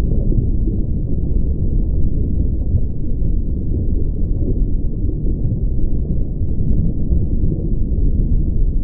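A loud, steady low rumble with no clear tone or beat.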